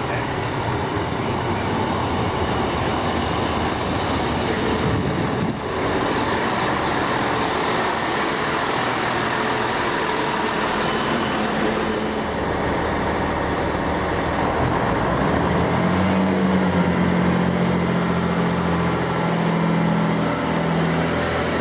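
Diesel passenger train running at a station: a steady rumble of wheels and engine, with a pitched engine drone coming in about two-thirds of the way through.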